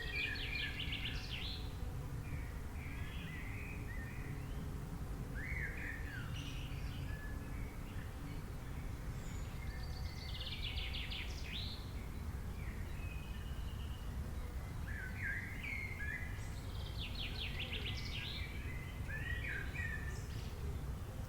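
Birds singing: a rapid trilled phrase repeats three times, about seven to ten seconds apart, with shorter chirps and whistles in between, over a steady low rumble.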